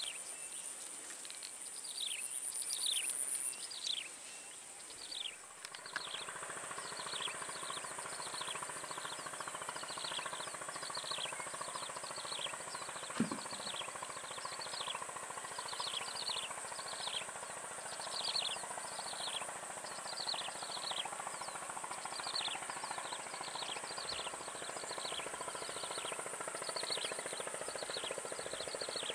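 Swamp ambience: a bird repeating a short downward chirp a little more than once a second, over a steady high insect drone. A faint steady hum joins about six seconds in.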